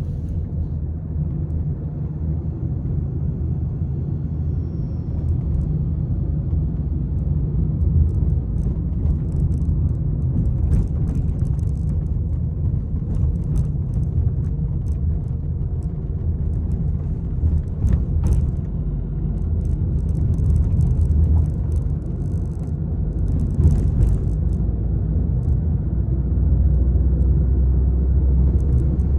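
Peugeot 301 being driven, a steady low rumble of engine and road noise with occasional short clicks and knocks.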